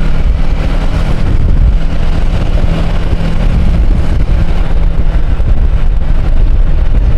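Motorcycle engine running steadily while riding, a loud low hum with wind noise on the microphone.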